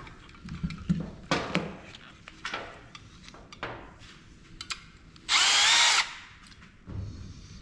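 Scattered clicks and knocks of printer parts being handled, then a power drill runs in one short whining burst of under a second, about five seconds in.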